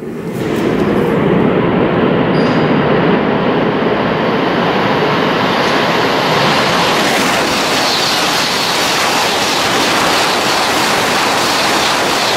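Shinkansen train running at high speed out of a tunnel hood and past close by: a steady rushing roar that grows as it nears, with a higher hiss building about halfway through.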